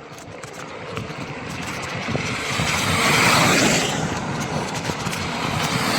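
A vehicle passing on a wet road: a hiss of tyres on water that swells to a peak a little past the middle, then eases off.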